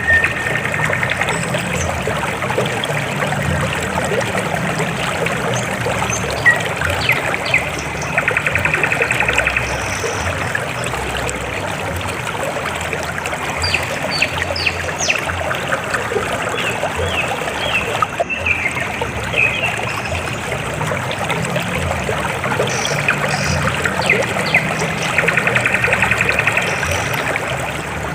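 River water flowing and trickling steadily. Short high chirps are scattered over it, and a rapid trill comes twice, about a third of the way in and near the end.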